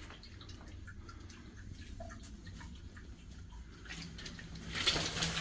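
Water dripping in a concrete underground passage: scattered single drips over a faint low rumble, with a louder scuffing rise near the end.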